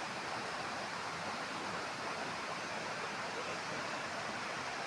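Steady rushing of flowing river water, an even hiss-like wash with no breaks.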